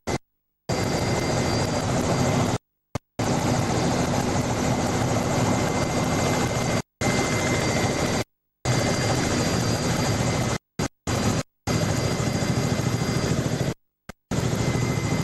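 Helicopter rotor and turbine noise heard from aboard: a loud, steady roar with a faint constant whine. The sound cuts out to dead silence several times for a fraction of a second, as recording dropouts.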